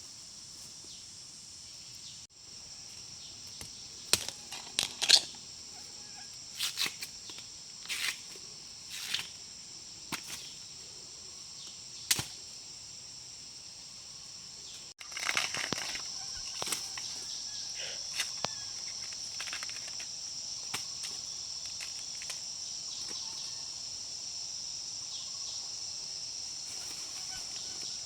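Steady high-pitched insect chorus of crickets or cicadas, louder from about halfway through. Over it come scattered sharp clicks, knocks and rustles, mostly in the first half.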